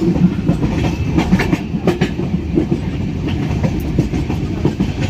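A moving passenger train heard from on board: a steady low rumble of the wheels on the track, with irregular clatter and knocks.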